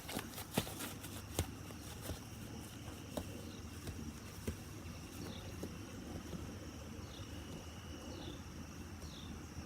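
Backyard ambience: a steady high-pitched drone over a low rumble, with short falling high chirps about once a second in the second half, and a few scattered knocks in the first half.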